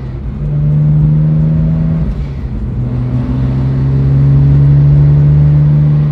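BMW E82's N54 twin-turbo straight-six pulling under load, heard from inside the cabin. It eases off briefly about two seconds in, then pulls again and grows louder.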